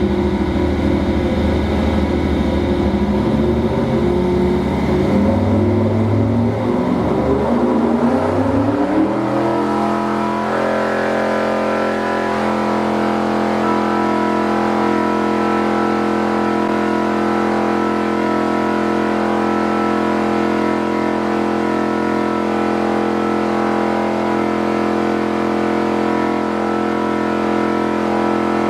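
383 small-block Chevy V8 airboat engine running on a dyno. The revs waver and climb for about nine seconds, rise smoothly, and then settle about twelve seconds in to a steady high-rpm hold. This is a steady-state run to verify torque and horsepower at about 5,300 RPM.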